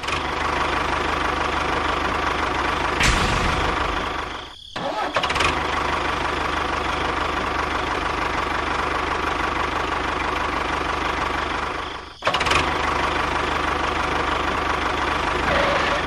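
Steady engine running sound of a miniature model tractor driving through sand, cutting off abruptly about four and a half seconds in and again about twelve seconds in before starting up again.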